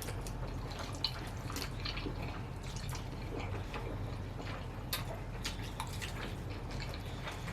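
Noodles being eaten: wet slurping and chewing noises with irregular small clicks and smacks.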